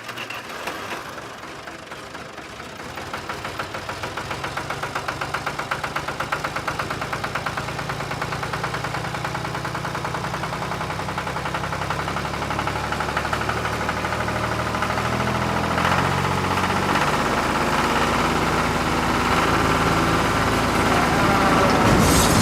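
An engine or motor running steadily with a fast, even knocking pulse, growing gradually louder over the stretch.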